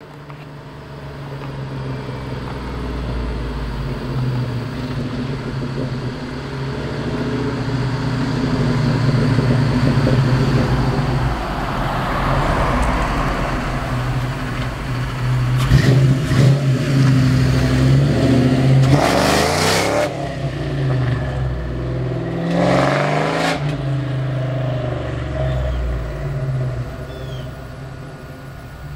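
1996 Mustang Cobra's 4.6-litre DOHC V8 running through a Flowmaster exhaust under hard driving, its pitch rising and falling, with two short harsh noisy bursts about two-thirds of the way through. The owner hears a grinding that comes only under hard acceleration and cannot tell whether it is the transmission, the clutch or the rear end.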